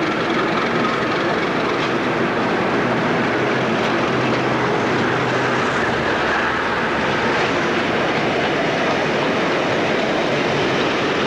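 Class 37 diesel-electric locomotive running past at very close range, its engine note giving way to a line of loaded petroleum tank wagons rolling steadily by on the rails.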